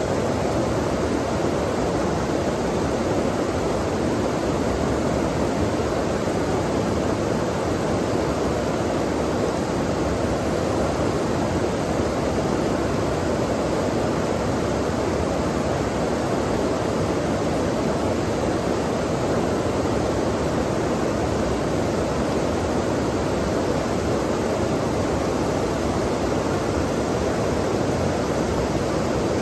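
Running water from a stream, a steady, even rush with no breaks.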